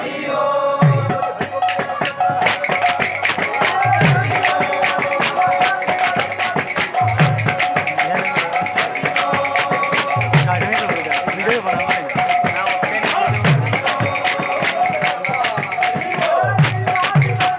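Kirtan music: rapid, continuous clashing of small metal hand cymbals, which starts a couple of seconds in, over a held melody line. A deep drum stroke falls about every three seconds.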